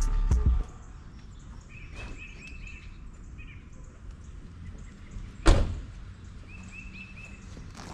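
Low steady background with a single sharp knock about five and a half seconds in, the loudest sound here, and two short runs of rapid high chirps, one before the knock and one after it.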